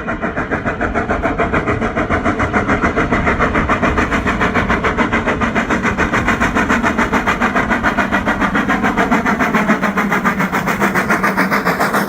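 Railway locomotive working under load, a steady rapid beat of about four to five pulses a second.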